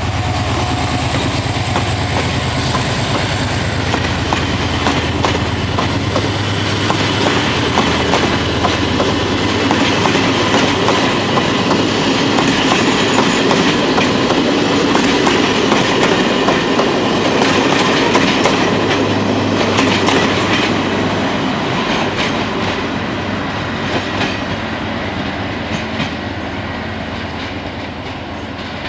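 Irish Rail 071 Class diesel locomotive running past with its EMD engine working, followed by a rake of Mark II coaches rolling by with wheels clicking over the rail joints. The sound fades near the end as the train draws away.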